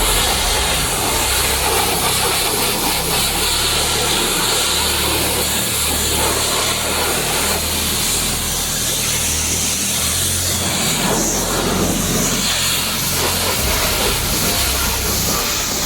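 Pressure washer spraying water, a steady loud hiss with the washer's low motor hum underneath.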